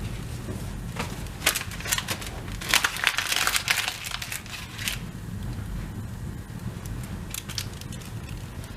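Dry paper, cardboard and kindling in a fireplace crackling and crinkling. There is a dense flurry of crackles and crumpling from about one and a half seconds in to about five seconds, then only scattered clicks.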